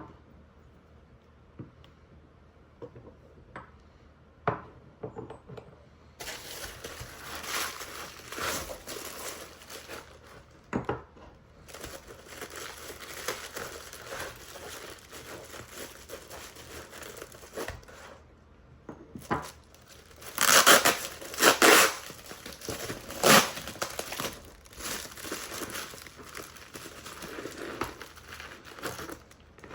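Packaging being crinkled and torn as wrapped carved stone figurines are unwrapped: a few light clicks at first, then continuous crinkling from about six seconds in, loudest past the middle.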